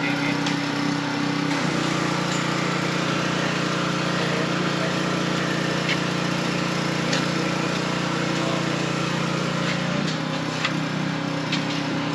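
A small motor running steadily. Its pitch shifts about a second and a half in and again near the end, with a few faint clicks over it.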